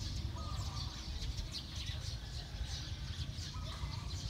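Small birds chirping busily in quick, high, repeated chirps over a steady low rumble.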